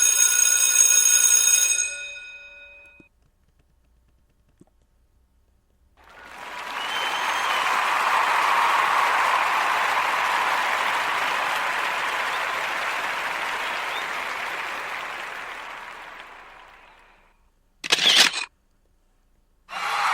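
A run of stock sound effects: a bright ringing chime that dies away, then about ten seconds of applause that swells and slowly fades, then a short sharp burst near the end.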